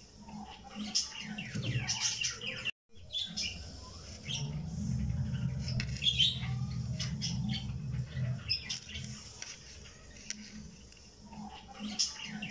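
Small birds chirping in short repeated calls over a low steady hum; the sound cuts out completely for a moment just before three seconds in.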